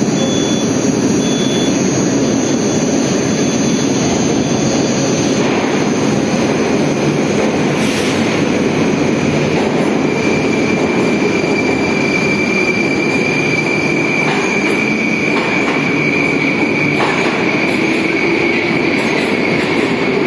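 Moscow metro train running between stations: a loud, steady rumble of wheels on rail, with a high thin wheel squeal that comes in about halfway and holds, and a few faint rail clacks.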